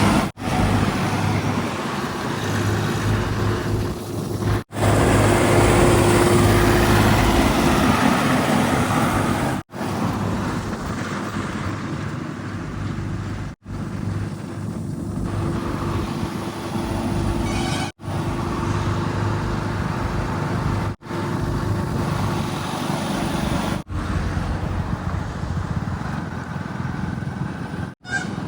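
Heavy diesel engines of a backhoe loader, tractors and tipper trucks running at work. The sound is cut into short clips a few seconds long, each ending in a sudden break.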